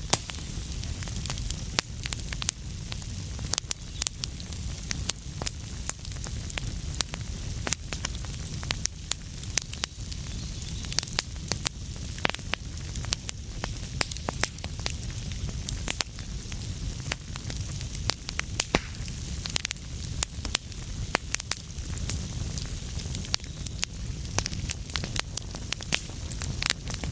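Wood fire crackling, with frequent irregular pops and snaps over a low steady rumble of burning.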